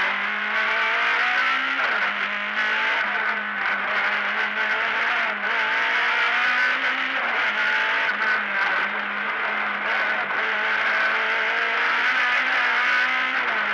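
Rally car engine heard from inside the cabin, revving up under hard acceleration, with the revs falling back at gear changes about two seconds in, around seven seconds in, and near the end.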